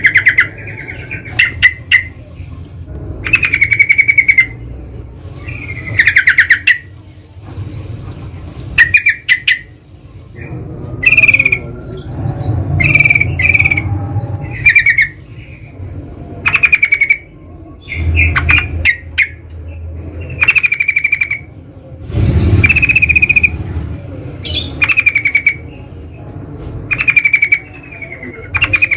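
Yellow-vented bulbuls (trucukan) calling in loud, short, bubbling chattering phrases, one after another every second or two.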